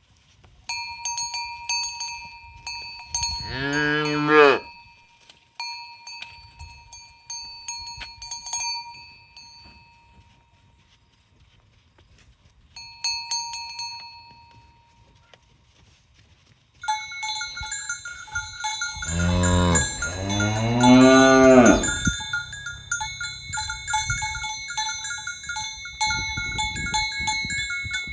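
Cowbells on a walking herd of cattle ringing on and off, with short lulls. A cow moos once about four seconds in, and two long moos, the loudest sounds, come over the bells about two-thirds of the way through.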